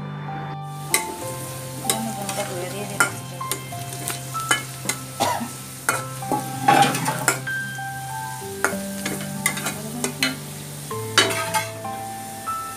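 Chopped garlic and dried red chillies sizzling in hot oil in a metal karahi, frying as a tempering (tarka). A spatula stirs through them, scraping and clicking against the pan many times.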